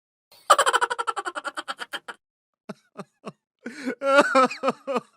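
Laughter: a quick run of rapid, evenly spaced 'ha' pulses about half a second in, then scattered short giggles near the end.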